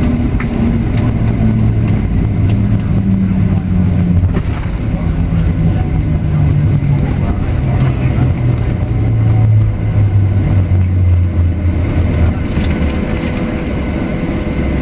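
Boeing 737-700's CFM56-7 jet engines heard from inside the cabin: a loud, steady rushing noise with a low hum that falls steadily in pitch as the engines spool down.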